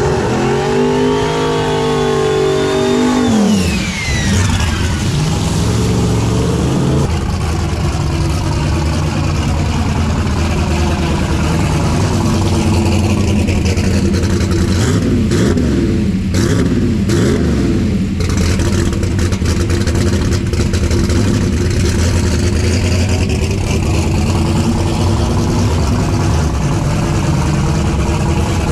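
Drag racing engines at high power. One revs up with a climbing pitch for about three seconds, then drops off sharply, and loud, dense engine running follows.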